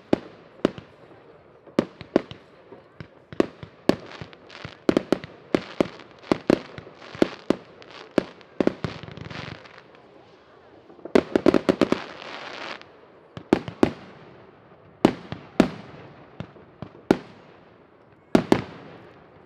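New Year's fireworks: irregular sharp bangs of rockets and firecrackers going off one after another, with a dense rapid string of crackling about eleven seconds in.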